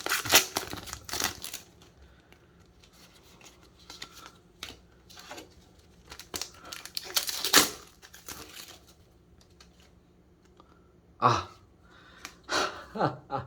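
Crinkling and tearing of a foil trading-card booster pack being handled and opened, loudest in the first second and a half, then quieter intermittent rustles and light taps of cards being handled.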